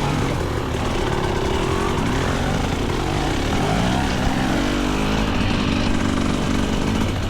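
GasGas EC300's 300 cc single-cylinder two-stroke dirt bike engine being ridden hard, its pitch rising and falling again and again as the throttle is worked.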